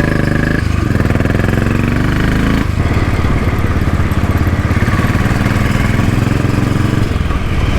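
Royal Enfield Bullet single-cylinder motorcycle engine running while ridden. Its note drops and then climbs again about half a second in, and changes again near three seconds, as gears are changed and it pulls away.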